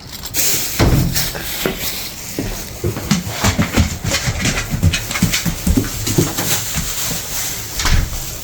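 St. Bernard moving about and breathing heavily close to the microphone, with many small irregular clicks and rustles over a steady hiss.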